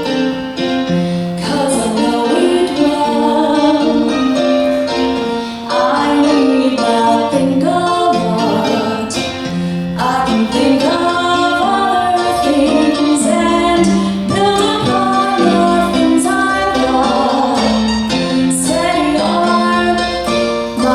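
A musical-theatre song performed live: a singer, most likely a woman, with piano accompaniment. The piano plays alone briefly, and the voice comes in about two seconds in.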